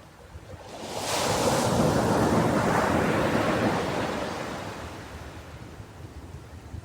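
Ocean wave breaking on a beach: the surf swells about a second in, its hiss peaks for a couple of seconds, then slowly draws back.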